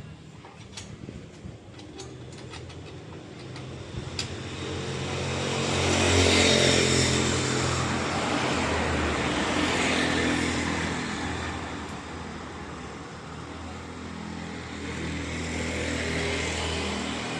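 A motor vehicle engine that swells and fades three times, each rise lasting a few seconds, after a few sharp metallic clicks near the start.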